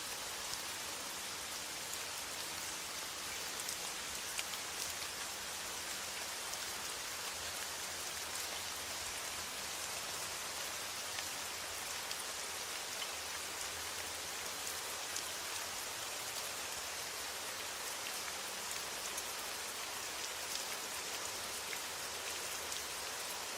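Steady rain: an even hiss of falling rain with faint scattered drop ticks, used as the background bed of a subliminal audio track.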